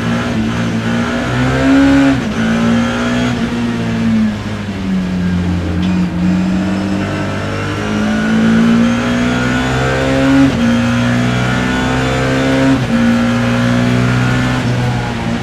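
BMW E30 M3's four-cylinder racing engine at high revs, heard from inside the car. The revs fall away, climb again as it accelerates hard, and drop suddenly a couple of times at gear changes.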